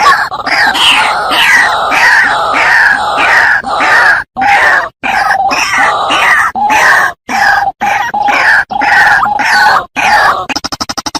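White-breasted waterhen calling loudly: a long run of harsh, repeated croaking notes with brief breaks between phrases. Near the end the calls give way to a fast, even train of rattling pulses.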